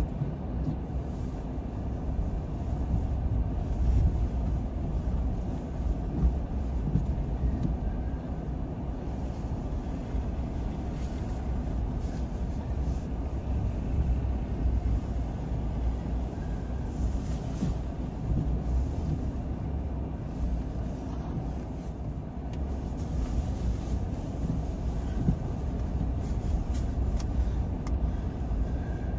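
Car driving at a steady pace: a continuous low rumble of engine and tyre road noise, heard from inside the vehicle.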